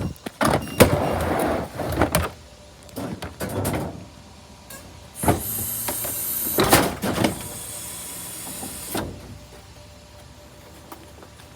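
Garbage truck at work: a run of knocks and clunks, then a long hiss lasting about four seconds, starting about five seconds in.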